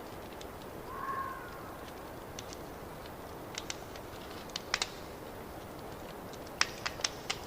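Fireplace crackling: a steady hiss with scattered sharp pops, which come thickest near the end. About a second in there is a brief high tone lasting about half a second.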